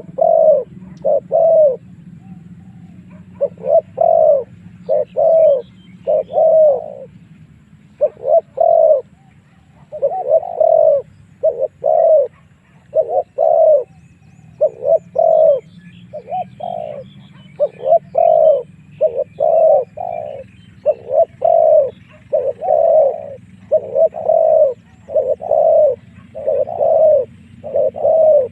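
Spotted dove cooing over and over in short phrases of two to four low coos with brief gaps between, used as a decoy call to draw wild spotted doves in to fight. Faint chirps from other small birds sit in the background.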